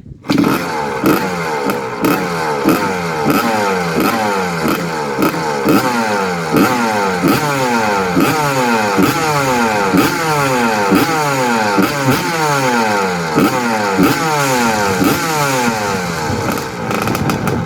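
1982 Honda CR125R Elsinore's freshly rebuilt 125 cc single-cylinder two-stroke engine running, revved in quick throttle blips about twice a second, its pitch falling back after each blip. It sounds really great.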